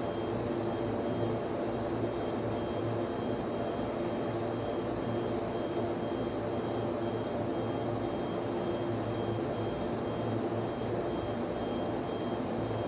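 Server room ambience: the steady whir of server and network-switch cooling fans, with a low hum and a faint, high, wavering whine.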